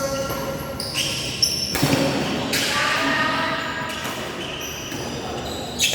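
Badminton play on an indoor court: several sharp racket-on-shuttlecock hits about a second apart, with short high shoe squeaks on the floor between them, echoing in a large hall.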